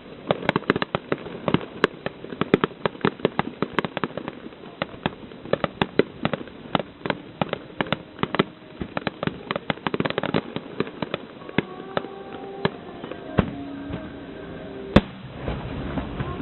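Fireworks finale: a rapid barrage of aerial shell bursts, many bangs a second, thinning out after about eleven seconds, with one loud single bang about fifteen seconds in.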